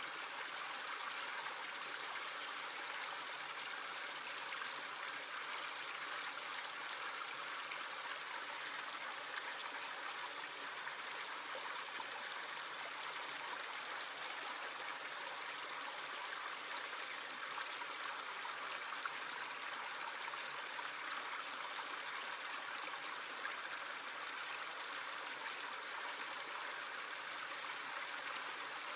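A small stream running over stones: a steady, even rush and trickle of water.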